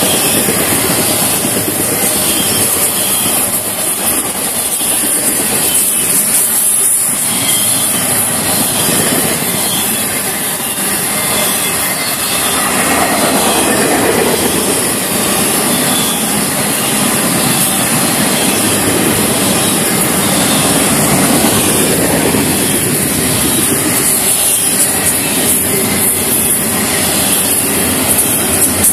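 Double-stack intermodal freight train's container cars rolling past, with a steady noise of steel wheels on rail.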